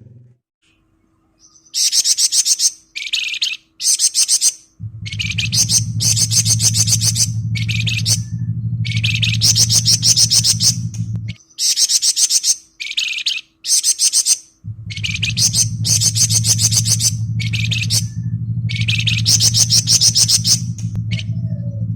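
Flamboyan bird singing its 'ngebren' song: high-pitched, very rapid rattling trills in repeated bursts of one to two seconds, with short gaps between them. A low steady hum runs underneath, dropping out for a few seconds near the middle.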